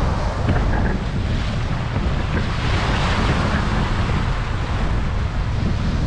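Strong wind buffeting the microphone in a low, steady rumble, over the hiss of rough surf breaking on the shore, which swells about halfway through.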